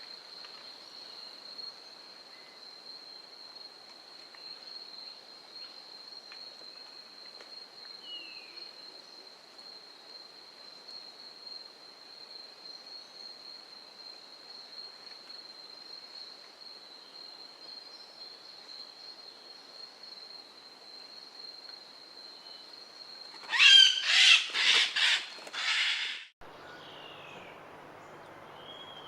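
Forest ambience with a steady high-pitched drone, then near the end a loud bird call of about five quick notes, the first sweeping up, which cuts off abruptly.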